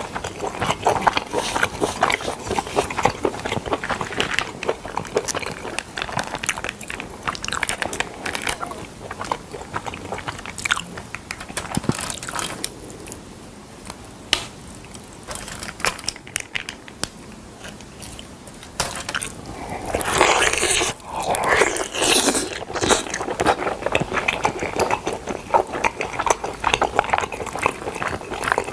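Close-miked biting and chewing of smoked chicken, with dense crackly clicks of mouth and food. It goes quieter through the middle, then a louder run of crunching comes about two-thirds through.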